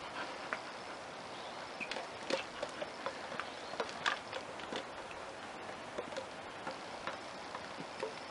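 A dog's claws and paws clicking and tapping irregularly on a hard floor, light taps at uneven intervals over a faint steady hiss.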